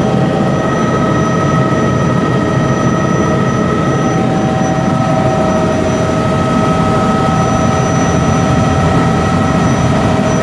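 Helicopter in flight, heard from inside the cabin: a steady, loud rotor and engine drone with a constant high whine.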